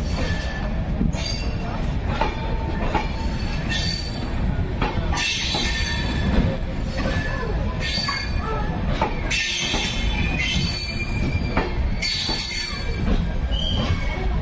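Express passenger train pulling out and rolling past, its steel wheels clattering over rail joints with patches of high-pitched wheel squeal over a continuous rumble.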